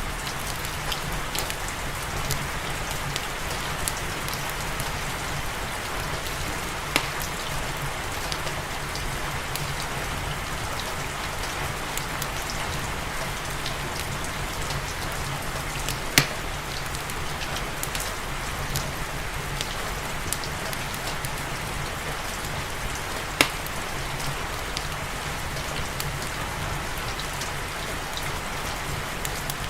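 Steady rain mixed with a crackling fireplace. Small crackles are scattered throughout, with sharper pops about 7, 16 and 23 seconds in, the loudest near the middle.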